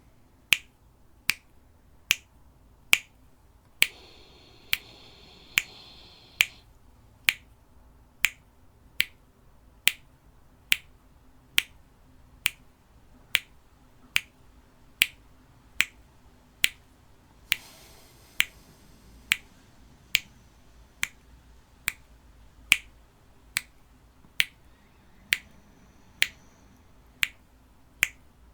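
A metronome clicking steadily, a little over once a second, pacing the counted breaths. A soft breath hiss comes in about four seconds in and again briefly halfway through.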